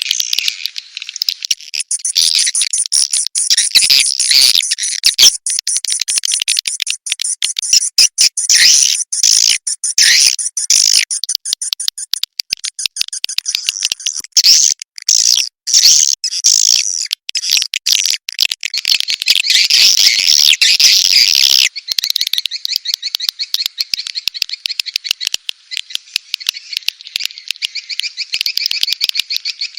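Swiftlet lure recording of the kind played to draw swiftlets into a bird house: dense, rapid swiftlet chirping and twittering. A steady high whine runs under the calls for much of the stretch and stops about 22 seconds in.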